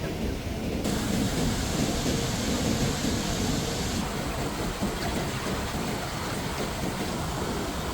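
Rushing floodwater: a steady, dense roar, strongest in the low end with a hiss above it, which brightens about a second in.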